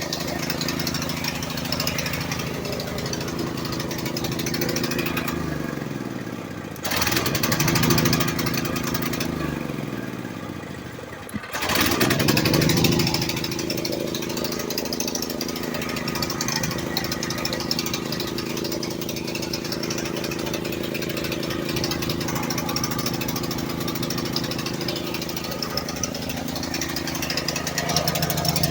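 Portable generator's small gasoline engine running. Twice its speed sags, the pitch falling as it nearly stalls, then it catches and picks back up. After about twelve seconds it runs steadily.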